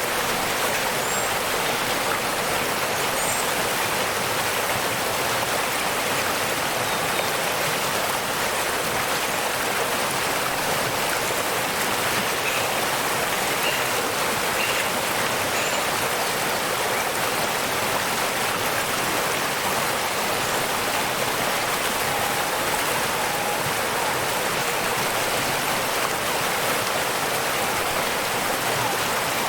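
Waterfall water rushing in a steady, even hiss. A few faint high chirps from birds come through now and then.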